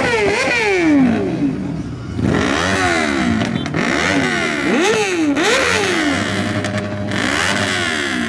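An engine revved hard about five times in a row. Each time the pitch climbs quickly and drops away before the next blip.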